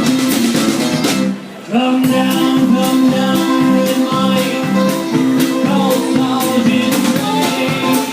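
Live band music: guitar strumming with a steady shaker-like percussion beat. The music drops out briefly about a second and a half in, then the band comes back in together.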